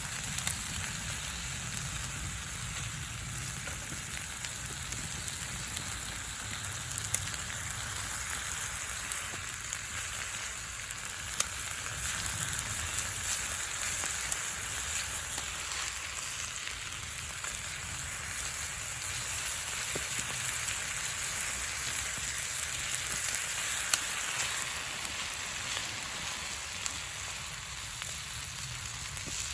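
Food sizzling in a pan over a wood campfire, a steady frying hiss with occasional sharp pops.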